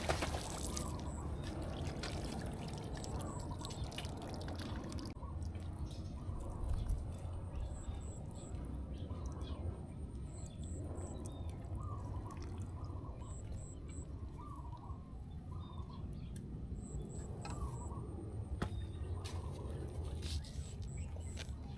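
Light water splashing and dripping over a steady low rumble, with short high chirps repeating throughout.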